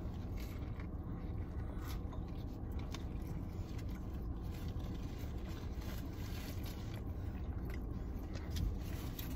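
Two people chewing mouthfuls of sub sandwich, with faint mouth clicks and wrapper scrapes, over a steady low rumble inside a car cabin.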